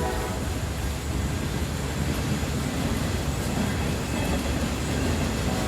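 Freight train rumbling steadily, with a continuous low rumble and no distinct clicks or whistles.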